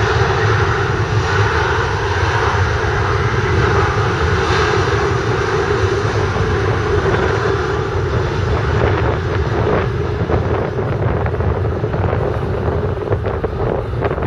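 Boeing 737-800's CFM56-7B turbofan jet engines running loud and steady. From about nine seconds in the high hiss fades and wind crackles on the microphone.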